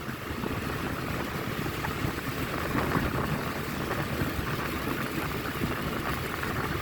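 Steady low rumble of a vehicle being ridden along a road: engine and road noise mixed with wind on the microphone.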